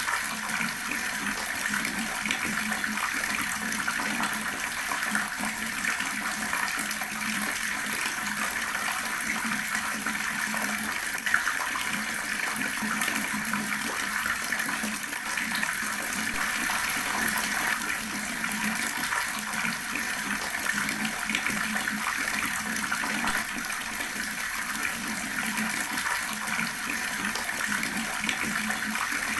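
Water running steadily from an outdoor tap and splashing below, an even, unbroken rush with one brief louder splash about 11 seconds in.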